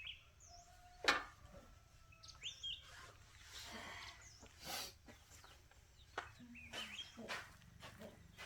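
Small birds chirping in short quick calls, with scattered clicks and knocks; the loudest knock comes about a second in.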